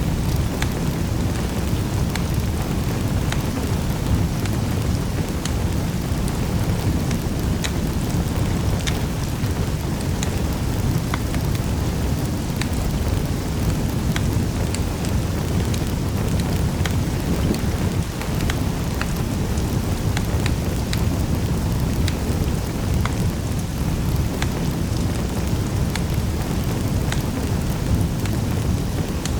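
Wood fire crackling in a fireplace: a steady low rush of flames with scattered sharp pops and snaps throughout.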